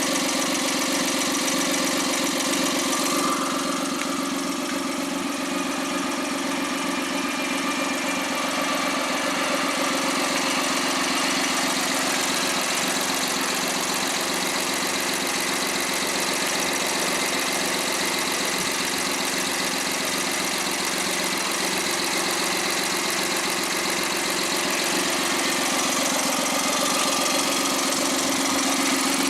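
Overhauled Suzuki K6A 660 cc three-cylinder turbo engine idling steadily on a test run after its rebuild.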